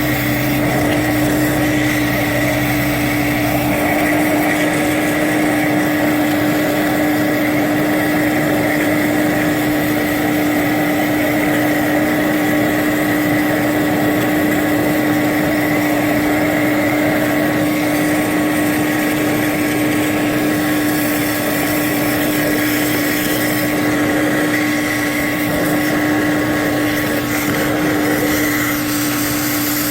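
Steady whine and hum of a running motor, holding one pitch throughout; a lower hum drops out about four seconds in.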